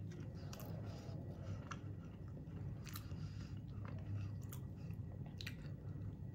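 A woman chewing a mouthful of soft blueberry muffin, with faint irregular wet mouth clicks and smacks, over a steady low hum.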